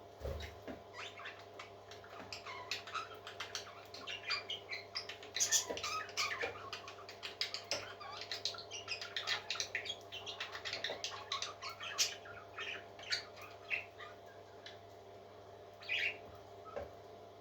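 Parrot chick cheeping in rapid, short, high-pitched calls, busiest through the middle, over a steady low hum.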